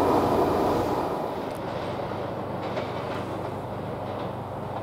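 Passenger train rolling away on the rails: its wheel and rail rumble fades over the first second, then carries on at a lower steady level with a few faint clicks.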